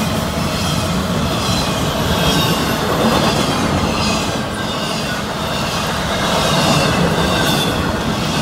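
Freight cars of an intermodal train, containers and trailers on well and spine cars, rolling past close by: a steady loud rumble of steel wheels on rail, with faint high squeals from the wheels now and then.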